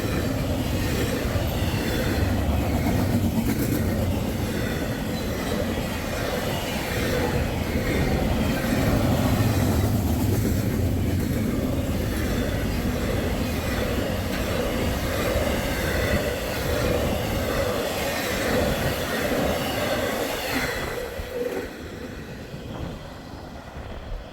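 A train rolling past on the rails, a steady loud rumble of wheels and cars that fades away over the last few seconds.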